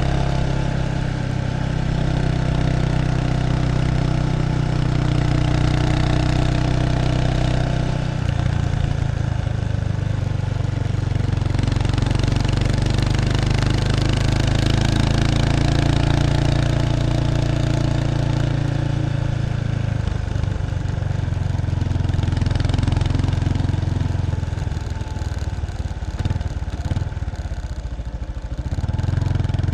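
Exhaust note of a 1993 Kawasaki Estrella's 250cc single-cylinder engine through its stock muffler, heard close up at the rear of the bike. The engine runs steadily, changes pitch about a quarter of the way in, and drops lower and quieter near the end before picking up again.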